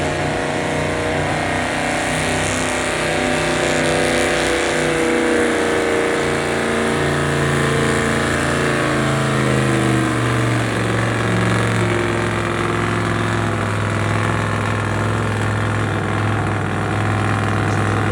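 Stock gas pickup truck engine held at full throttle while pulling a weight-transfer sled. Its pitch sinks steadily as the sled's load builds and drags the engine down.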